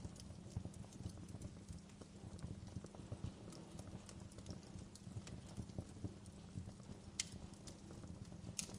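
Wood fire crackling in a fireplace: irregular small crackles over a low steady rumble of the flames, with two sharper pops near the end.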